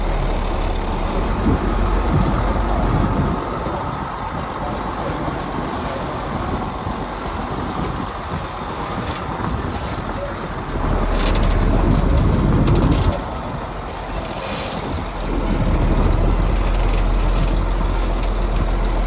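Heavy construction machinery engine running, its level swelling and easing: loud about two-thirds of the way through, dropping off suddenly, then building again near the end, with a few brief clanks.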